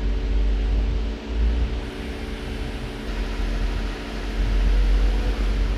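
Toyota Avalon's V6 engine running at a steady speed, a low rumble that swells and dips in loudness. It is being checked for a misfire after its injectors were cleaned, and its RPM has settled back to normal.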